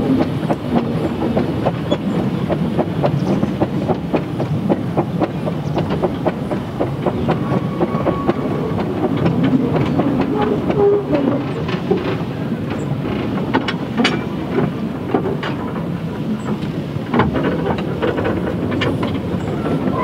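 Train running along the track, a steady rumble with an irregular clatter of wheels over rail joints.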